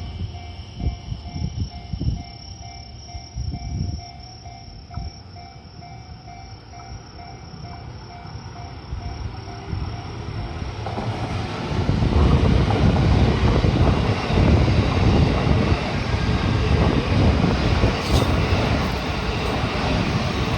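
Railway level-crossing alarm sounding a repeating pulsed tone. About halfway through, a train runs past the crossing with a loud rumble of wheels on rails that drowns the alarm out.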